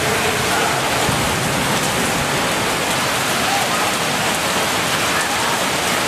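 Heavy rain pouring down steadily, a dense, even hiss of rain falling on the pitch.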